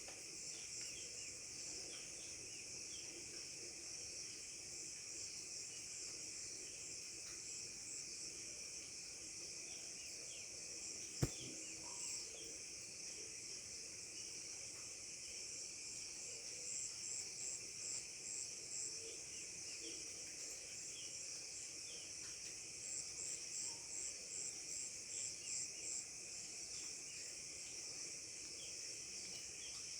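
A steady, high-pitched chorus of insects, with two runs of evenly pulsed chirping partway through and near the end. One sharp click sounds about 11 seconds in.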